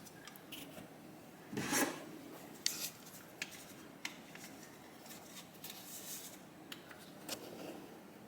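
Metal engine parts being handled and shifted during a motorcycle engine teardown: scattered light clicks and taps, with one louder scrape about two seconds in.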